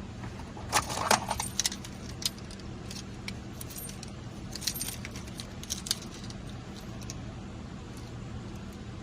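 Keys jangling in two short bursts, about a second in and again around five seconds in, over a steady low hum.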